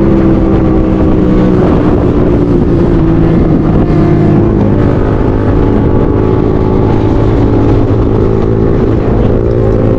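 Motorcycle engine running under way, recorded from the rider's own bike; its pitch sags a little over the first few seconds, then holds steady.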